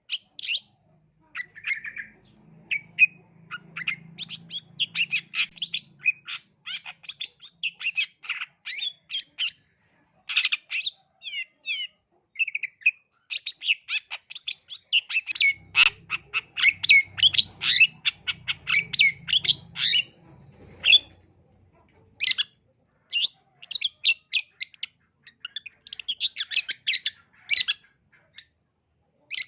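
Long-tailed shrike singing a fast, busy song of rapid chirps and harsh squawking notes in dense runs, broken by a few short pauses.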